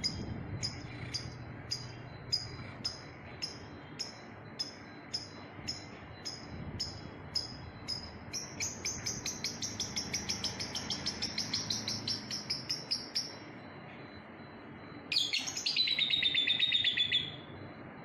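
Lovebird chirping: sharp, high chirps about two a second, then a faster run of chirps, and near the end a loud two-second burst of rapid chirping that falls in pitch.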